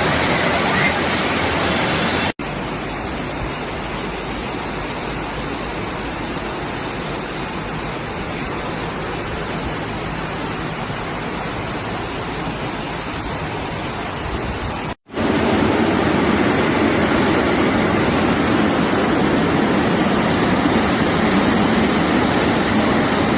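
Rushing floodwater in heavy rain: a river over its banks, heard as a steady, loud rush of water. The sound cuts off abruptly twice, about two seconds in and about fifteen seconds in, and the last part is fuller and deeper.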